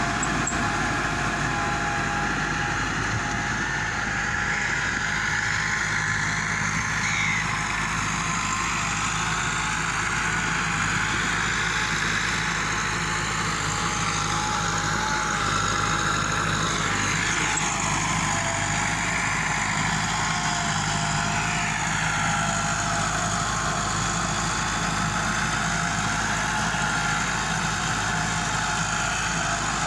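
Massey Ferguson 385 tractor's four-cylinder Perkins diesel engine running at a steady, unchanging speed.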